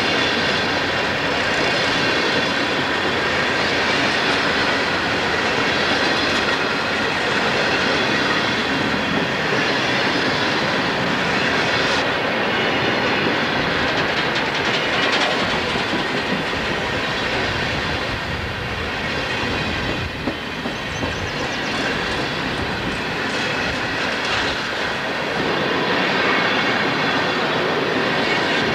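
Loaded coal train rolling past: hopper cars' steel wheels clicking over the rail joints under a steady rumble from the diesel locomotives working under load.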